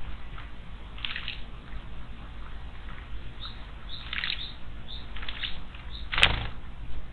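Small wild songbirds chirping in short, scattered bursts at a garden water basin, with a single louder, brief noise about six seconds in.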